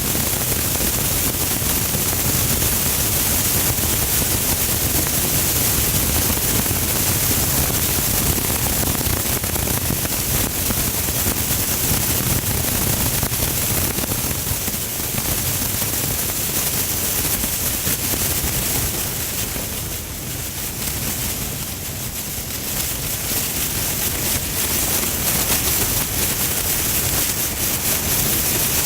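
Steady rain on a car's windshield heard from inside the car, an even hiss with a low rumble underneath, easing slightly about twenty seconds in.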